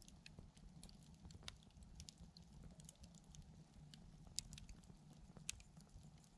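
Wood fire crackling softly, with scattered small snaps and two louder pops a little past the middle.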